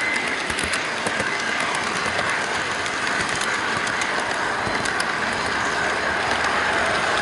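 HO-gauge model freight train rolling along the track, heard from a camera riding on one of its container wagons: a steady rolling whir with small irregular clicks of the wheels over the rail joints.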